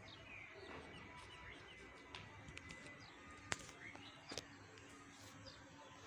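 Faint chirps of small birds calling over a steady background hiss, with two sharp clicks a second apart just past the middle.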